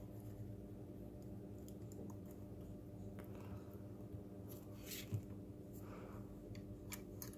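Faint clicks and rustles of small plastic robot-kit parts being handled and fitted together, with one small knock about five seconds in, over a steady low hum.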